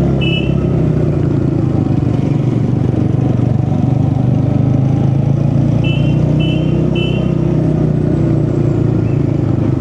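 A TVS Ronin motorcycle's single-cylinder engine running steadily on the move. Four short high beeps sound over it: one right at the start, then three in quick succession about six seconds in.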